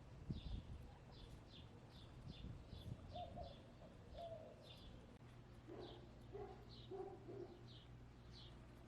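Faint, rapid high chirps of a small wild bird, about two a second, with a few soft low hen calls in the second half.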